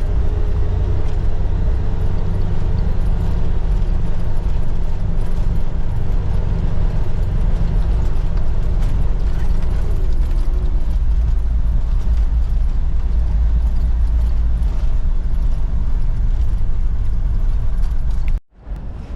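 Steady low rumble of a vehicle driving along a road, engine and road noise together with a faint wavering whine. It cuts off abruptly near the end.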